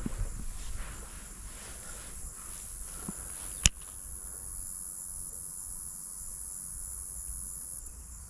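Steady high-pitched chorus of insects singing outdoors, with a single sharp click about a third of the way in.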